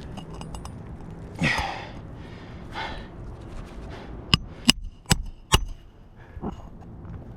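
A person's heavy breaths, then a hammer driving a roofing nail into a shingle: four sharp strikes about 0.4 s apart, with a fainter knock after.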